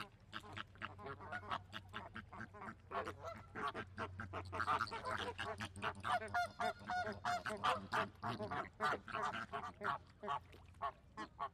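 Flock of flamingos calling: many short honking calls overlapping in a continuous chatter.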